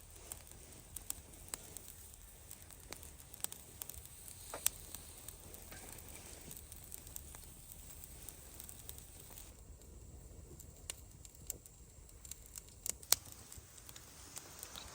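Wood campfire crackling, with scattered small irregular pops and one sharp, louder pop near the end.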